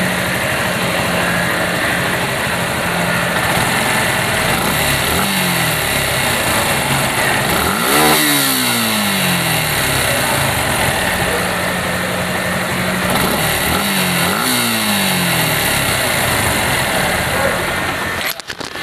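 Suzuki Gixxer SF FI single-cylinder engine idling steadily, with a short throttle blip about five seconds in, a bigger rev that rises and falls around eight seconds, and two quick blips near fourteen seconds. It is the engine as it runs after the tappet (valve clearance) repair.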